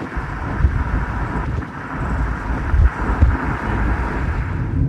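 Road noise of a moving vehicle: a steady rumble of engine and tyres, with a few brief low thumps.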